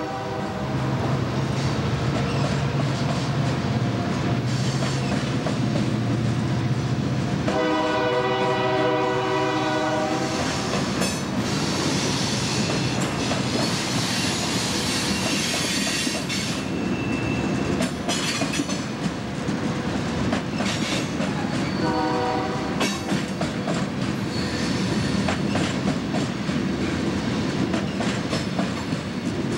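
Loaded coal cars rolling past close by, a steady rumble with clickety-clack of wheels over rail joints. A train horn sounds one long blast about eight seconds in and a short one at about twenty-two seconds, and there is a brief high squeal of wheels near the middle.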